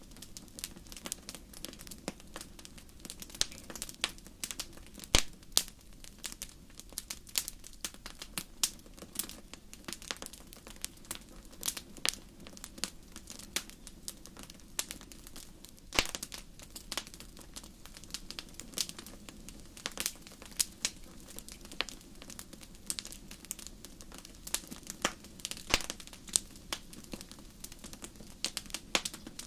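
Wood fire in a fireplace crackling, with irregular sharp snaps and a few louder pops over a low steady hiss.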